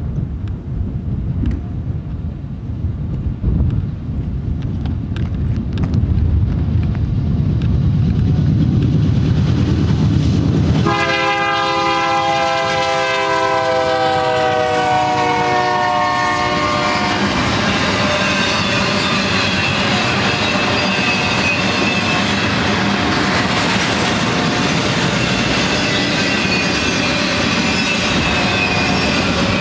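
BNSF double-stack intermodal train led by GE C44-9W diesel locomotives: a heavy low rumble as the locomotives pass, then about eleven seconds in a multi-note locomotive horn sounds for about six seconds, its chord sliding slightly lower in pitch. After that the loaded container cars roll by with a steady clickety-clack and a faint thin wheel squeal.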